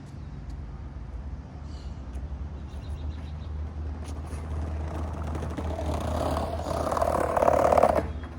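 Skateboard wheels rolling on pavement, the rumble growing louder as the board approaches and stopping abruptly near the end.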